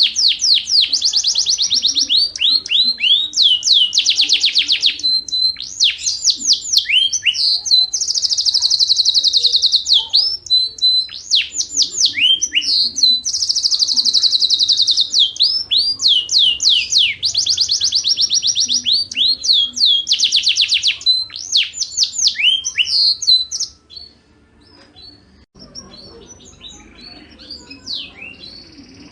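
Yorkshire canary in full, vigorous song: long runs of rapid high trills and rolls with quick sweeping notes, one phrase after another. The song breaks off about 24 seconds in and starts again just at the end.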